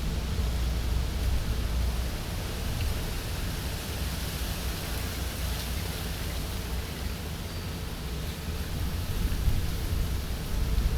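Steady outdoor background noise: an even hiss over a strong, uneven low rumble, with no clear event standing out.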